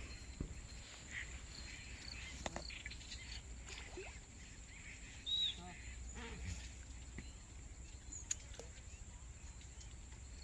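Faint outdoor ambience: a steady high insect buzz with scattered light clicks, and one short bird chirp about five seconds in.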